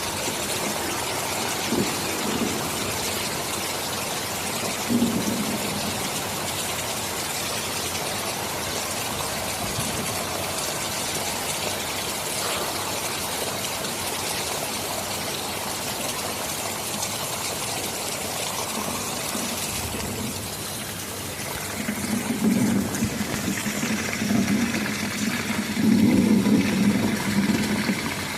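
Steady heavy rain with low rolling thunder. The thunder rumbles briefly near the start, then builds in the last several seconds to the loudest part.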